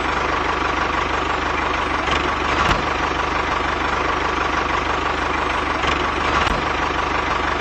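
A small motor running steadily with an even hum, with a couple of faint clicks partway through.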